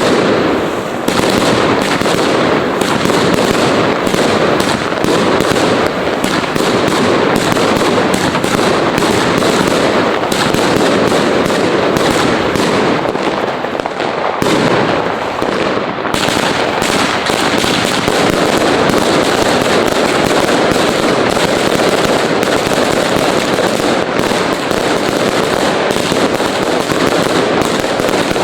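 Fireworks and firecrackers going off in an unbroken barrage of overlapping bangs and crackles.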